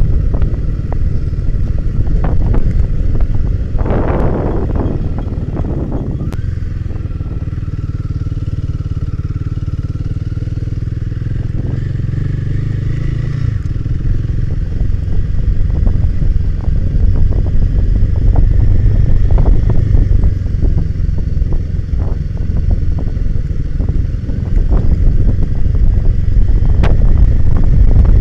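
Off-road motorcycle engine running on a trail ride, with a short noisy rush about four seconds in. The engine holds a steady note for several seconds in the middle, then grows louder as it is opened up near the end.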